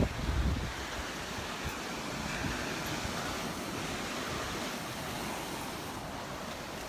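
Surf washing onto the beach as a steady hiss, with wind buffeting the microphone in low gusts during the first second.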